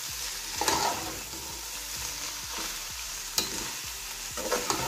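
Chicken and vegetable filling frying in oil in a nonstick pot, with a steady sizzle, while a metal spatula stirs and scrapes through it. A few louder scrapes stand out, the sharpest about three and a half seconds in.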